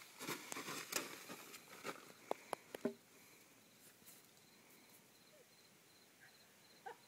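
Faint insect chirping, a quick steady pulsing trill. In the first three seconds there are soft rustles and several sharp knocks.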